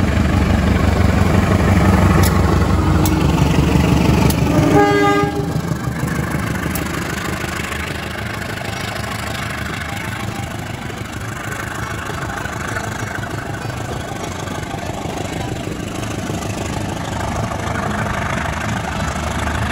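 KAI CC203 diesel-electric locomotive passing close, its engine rumbling heavily for the first five seconds, with a brief horn note about five seconds in. Then comes the steady rolling noise of passenger coach wheels going by on the rails.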